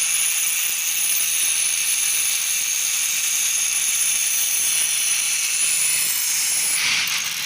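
A steady, high-pitched mechanical noise with a thin whine, holding even and then fading out near the end.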